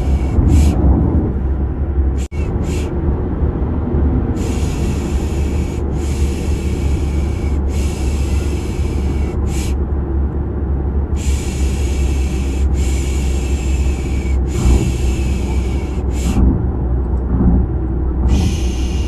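Steady car-interior engine and road rumble, with a person's 'pişş' shushing laid over it: long hissing shushes of a second or more each, mostly in runs of three with short pauses between, plus a few short ones. The rumble drops out for an instant about two seconds in.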